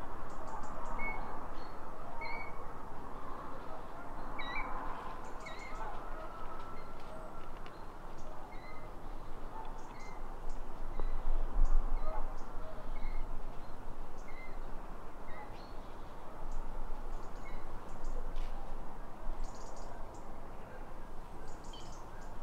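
A small bird calling with short, high chirps, repeated roughly once a second, over a steady background hiss.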